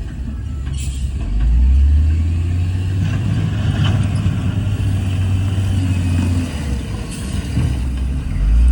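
Heavy diesel engine of earthmoving machinery running with a deep, steady rumble that swells about a second and a half in.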